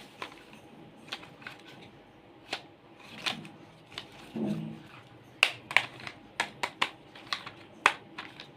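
Irregular sharp clicks and taps of small plastic toys being handled, coming in a quick run in the second half. A brief low voice-like sound comes about four and a half seconds in.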